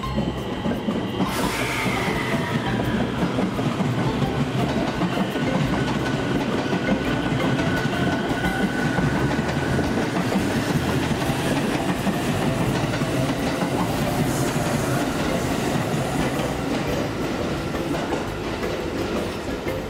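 Train running along the track with a steady rumble. It starts abruptly a little over a second in with a short falling whine.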